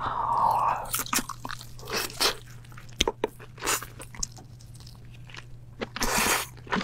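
Close-miked eating sounds: biting into and chewing sauced king crab leg meat, with many short wet crackles and clicks and a louder burst of noise about six seconds in.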